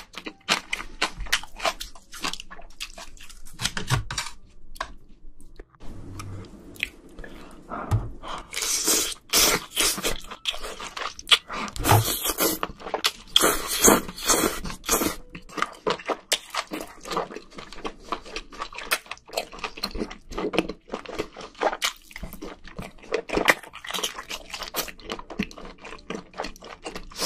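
Close-miked eating sounds of a seafood meal: a person chewing and crunching food, with many short wet clicks and louder stretches about nine seconds in and again around thirteen to fifteen seconds.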